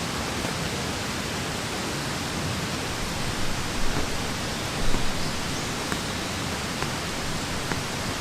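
Steady rain falling, an even hiss, with a few soft low thumps about four and five seconds in.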